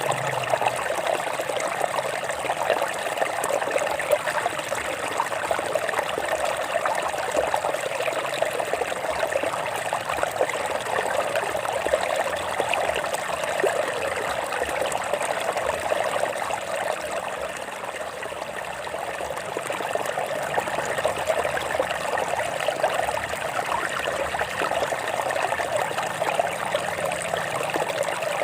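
Water of a stream trickling and splashing over rocks, a steady bubbling flow.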